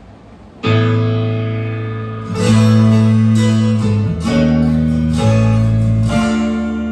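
Karaoke backing track intro: strummed guitar chords starting about half a second in, each chord held and ringing for one to two seconds before the next.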